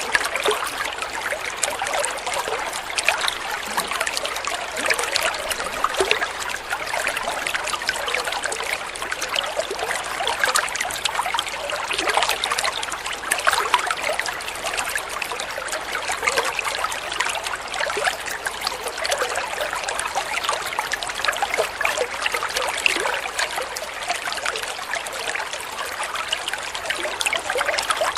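Shallow water flowing and trickling steadily, with many small splashes and gurgles over a constant rush.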